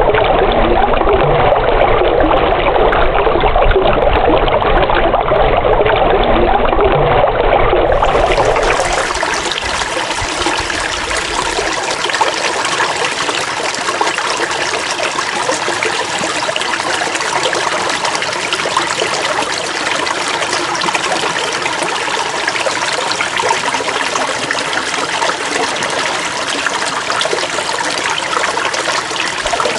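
Running water trickling and splashing, like a stream. About eight seconds in it changes abruptly to a thinner, hissier flow of water.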